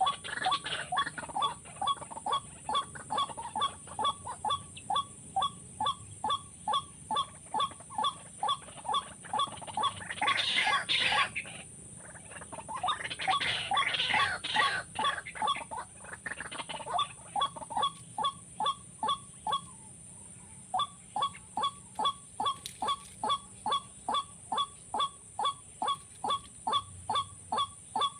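White-breasted waterhen call, a short note repeated evenly about twice a second, played as a lure to draw birds to a trap. Around ten and thirteen seconds in, it is broken by harsher, noisier stretches.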